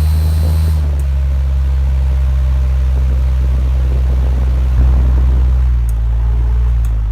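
Vintage Dayton 16-inch table fan running at full speed: a steady low motor hum with the rush of air off the blade. A faint high whine stops with a click about a second in.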